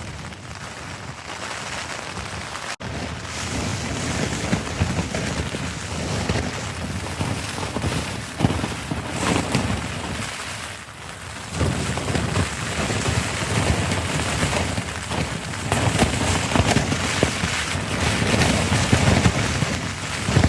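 Blizzard wind gusting against the microphone: a loud, rushing hiss with a low buffeting rumble that swells and eases, strongest in the second half.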